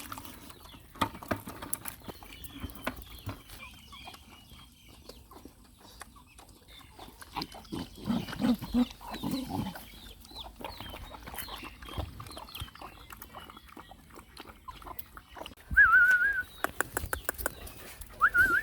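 Dogs feeding, with many small wet clicks of eating or suckling. Low grunts come about halfway, and a loud wavering whine near the end, heard again briefly.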